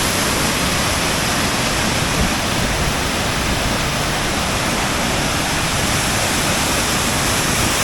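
Skjervsfossen waterfall: a loud, steady rush of falling water.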